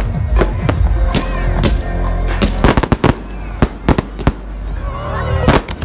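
Fireworks going off: a rapid, irregular string of sharp bangs and cracks, with some bursts close together, over loud music.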